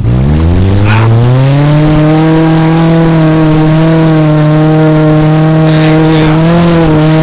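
A 1995 Mazda's Ford engine under hard throttle: the revs climb over about two seconds, then hold high and steady.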